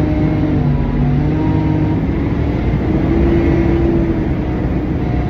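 Diesel engine of a front-load garbage truck running as the truck drives, heard from inside the cab, its note rising slightly about three seconds in.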